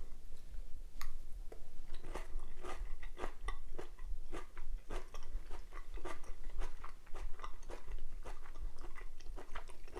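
A person chewing a mouthful of kung pao chicken with dried chili pepper, with many small, irregular crunches.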